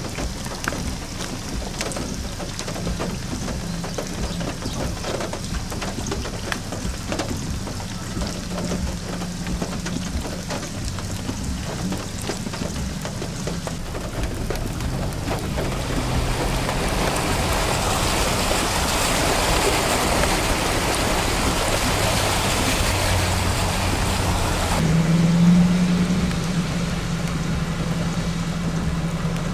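Heavy rain falling onto standing floodwater, with a low engine hum underneath; the rain grows louder about halfway through. Near the end it cuts to a steady engine drone with lighter background noise.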